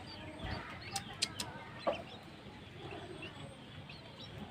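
Young birds giving short, high chirping calls while being hand-fed, with a few sharp clicks about a second in.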